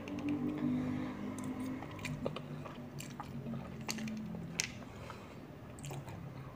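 Close-up chewing of chicken noodles, with sharp clicks and taps of a metal fork working the noodles in a paper takeaway box.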